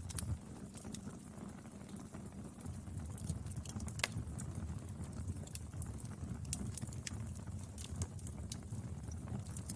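Wood fire burning, a steady low rumble with irregular crackles and pops from the burning wood, one sharper pop about four seconds in.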